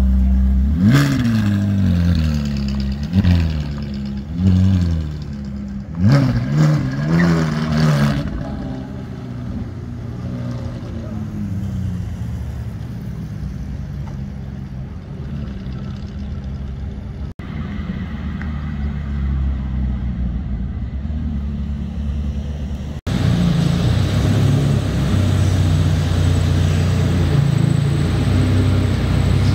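Ferrari 458 Italia's V8 revved in about five quick blips during the first several seconds, each pitch rising and falling, then settling to a steadier, quieter engine sound. After a cut about three-quarters of the way through, a Lamborghini Diablo's V12 runs steadily at low revs.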